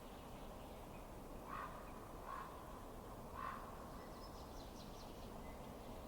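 Low, steady rush of a fireplace wood fire, with three short louder sounds about a second apart and a quick run of faint high ticks near the end.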